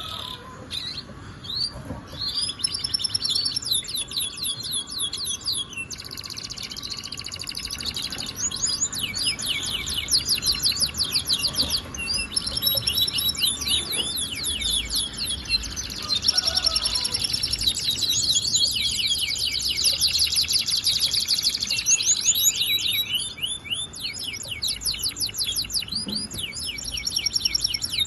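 Domestic canary singing continuously: long runs of fast trills and rolls of quickly repeated high notes, changing from one trill to the next every second or two.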